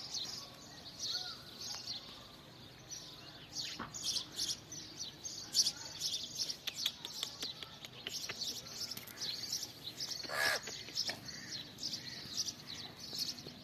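Birds chirping, many short high chirps in quick succession, with one louder call about ten and a half seconds in.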